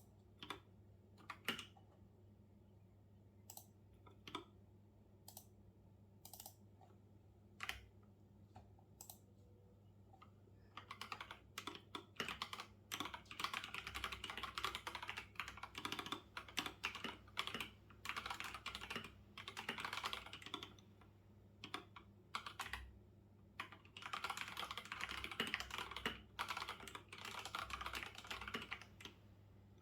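Typing on a computer keyboard: scattered single clicks for about the first third, then quick runs of keystrokes with a brief pause about three-quarters of the way through, over a faint steady low hum.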